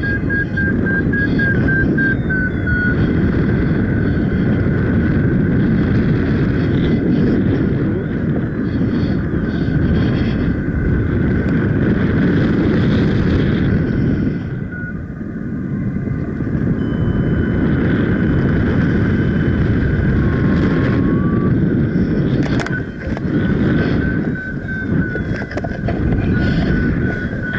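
Strong wind buffeting the microphone of a paraglider flying in very strong wind, a loud rushing roar that eases briefly about halfway through and again near the end. A thin high pulsing tone comes and goes near the start and near the end.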